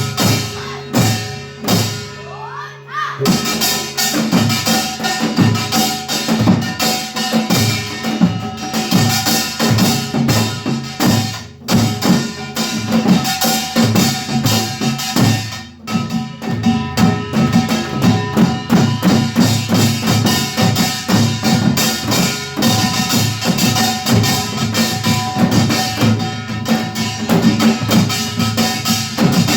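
Samul nori percussion ensemble (kkwaenggwari small gong, janggu hourglass drum, buk barrel drum and jing gong) playing a fast, dense rhythm with ringing gong tones. The strokes are sparser for about the first three seconds before the full ensemble drives in, with brief breaks near twelve and sixteen seconds in.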